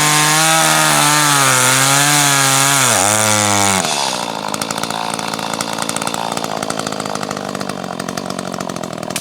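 Chainsaw cutting wood, its engine note wavering and sagging under load, then dropping back to a lower, quieter idle about four seconds in.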